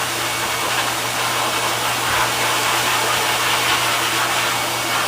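Pet grooming dryer blowing a steady stream of air, drying a dog's coat.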